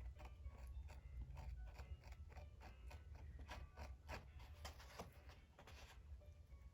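Faint, irregular small clicks and crinkles, several a second, from close handwork picking at a stuck tab on a Torah scroll's parchment, over a low steady hum.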